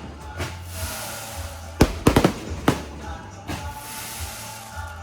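Fireworks going off in a quick cluster of sharp bangs about two seconds in, with a few single bangs after, over music playing throughout.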